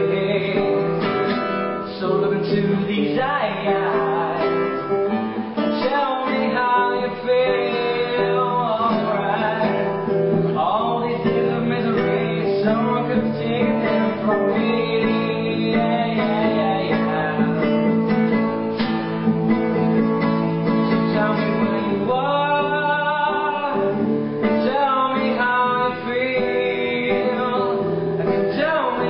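Acoustic guitar playing an instrumental passage without lyrics: sustained chords with a melody line moving over them.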